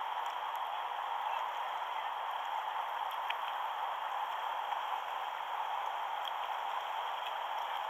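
River water rushing steadily past a kayak, with a few faint clicks.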